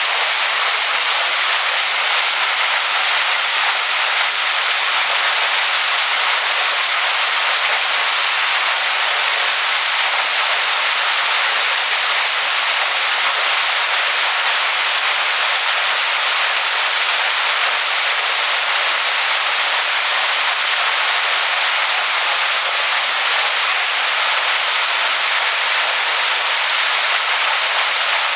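Waterfall splashing onto rocks: a steady, loud hiss of falling water, bright and high with little low rumble, unchanging throughout.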